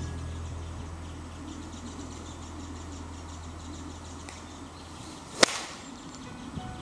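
Golf club striking a target bird golf ball (a golf ball fitted with a shuttlecock-like skirt) off a hitting mat: one sharp crack a little over five seconds in.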